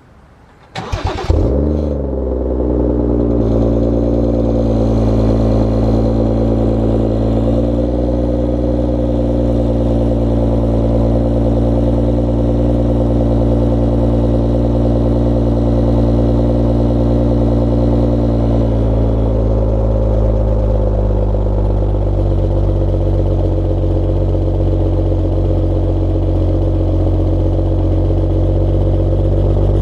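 BMW F30 335i's turbocharged inline-six starting up through a muffler-delete exhaust: it cranks and catches about a second in, flares up in pitch, then settles into a steady fast idle. About two-thirds of the way through the idle drops to a lower, steady speed.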